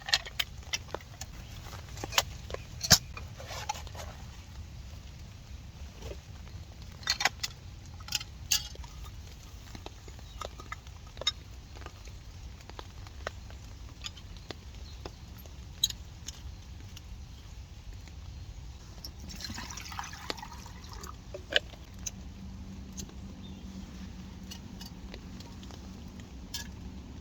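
Rain on a camping tarp: scattered, irregular drops tapping sharply, a few of them loud, over a steady low background of rain.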